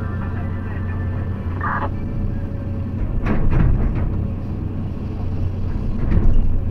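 Motor vehicle engine running steadily with a low rumble while driving over a rough, broken road, jolting and knocking on bumps about three and a half and six seconds in.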